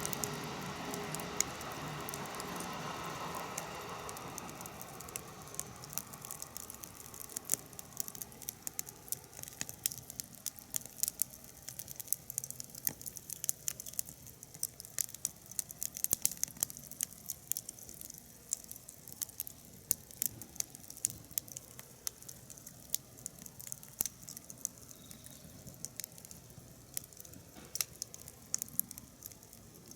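Wood fire in a fire pit crackling, with many irregular sharp snaps and pops. A rushing noise at the start fades away over the first several seconds, leaving mainly the crackle.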